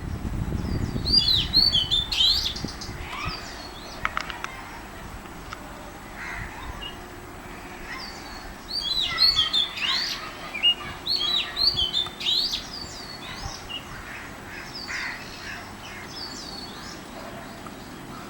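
Oriental magpie-robin singing: short, varied whistled phrases with quick up-and-down sweeps, loudest about a second in and again in a dense run from about nine to twelve seconds in. A low rumble sounds under the first second.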